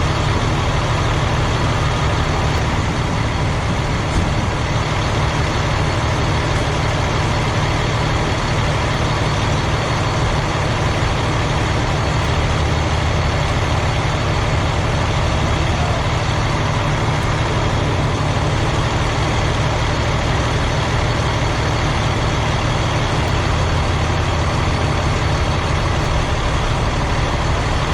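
Heavy vehicle engine running steadily with a constant low drone and no change in pitch or level.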